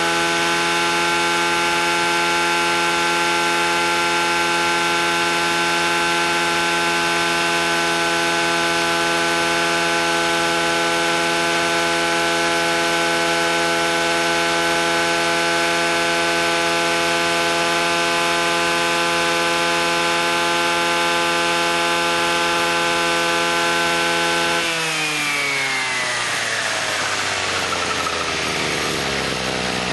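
Small two-stroke engine of a Kubota brush cutter, recovering from a seizure, running steadily at high revs; about 25 seconds in the revs fall away over a few seconds to a lower, steady speed.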